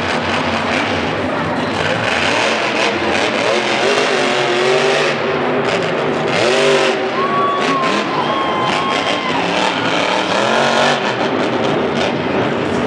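Monster truck engine revving hard, its pitch swooping up and down again and again.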